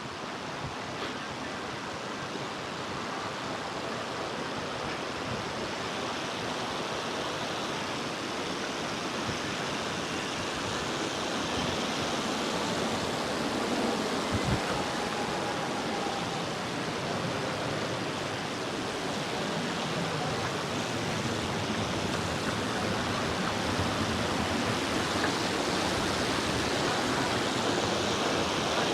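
Waterfall: a steady rush of falling water that grows gradually louder, with one brief low thump about halfway through.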